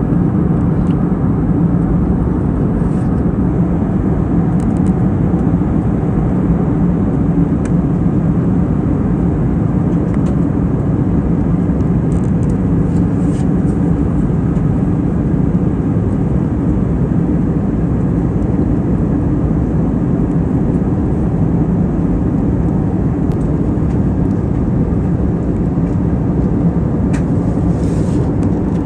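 Steady cabin noise of an Airbus A320neo airliner in flight: an even, low rush of engine and airflow noise, with a few faint light clicks.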